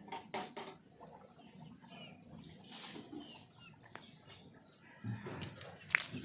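Domestic birds calling: hens clucking with scattered short chirps, and one loud sharp call near the end.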